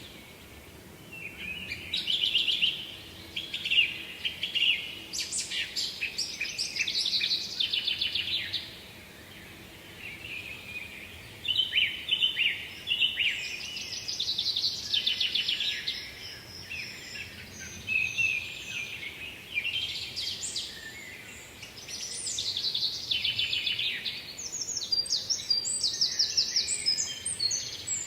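Songbirds singing: phrase after phrase of quick, trilling notes with short pauses between, over a faint steady hiss.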